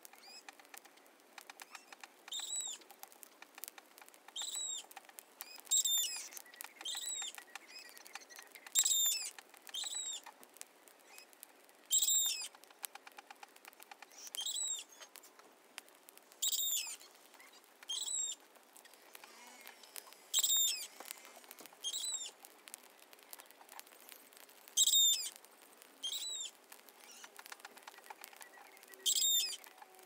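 A bird calling repeatedly, a short high call every one to two seconds, over a faint rapid clicking.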